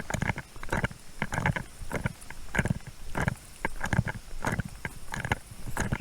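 Footsteps at a walking pace picked up by a body-worn police camera, a thump about every half second with gear jostling against the camera.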